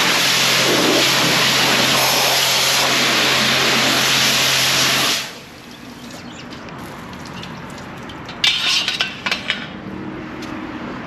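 High-pressure car-wash wand spraying water onto a car, a loud steady hiss that cuts off abruptly about five seconds in. After it a few short splashes or spurts of water near the end.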